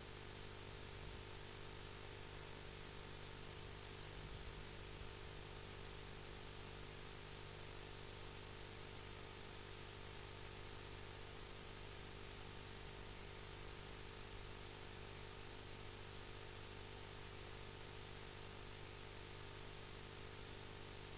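Steady faint hiss with a constant electrical hum; no bird calls or other distinct sounds stand out.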